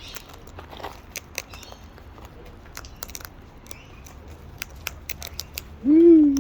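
Parrots cracking and munching seed with their beaks: irregular sharp crunching clicks. Near the end a short low voiced sound rises and falls in pitch.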